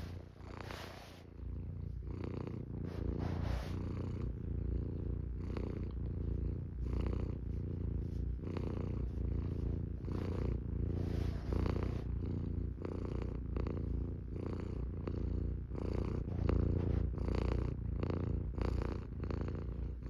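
Norwegian Forest cat purring, a low continuous purr.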